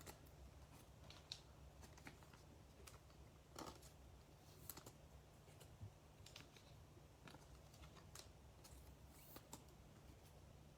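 Near silence with a low steady hum, broken by faint, scattered light clicks and taps of small objects being handled.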